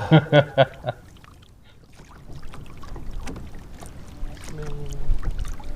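A few quick knocks and handling sounds on a kayak in the first second, then after a short lull a rising rush of wind and water noise.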